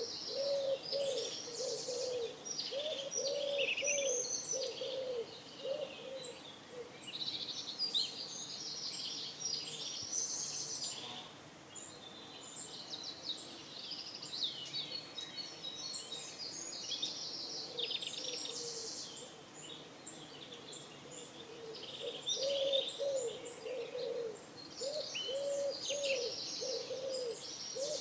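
Pigeons cooing in short repeated low phrases for the first few seconds and again through the last ten, over songbirds chirping and trilling throughout.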